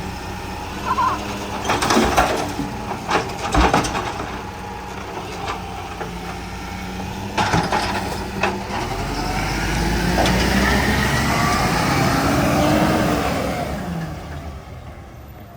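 Volvo garbage truck running, with several sharp clanks in the first half, then its engine growing louder with rising and falling pitch before fading near the end.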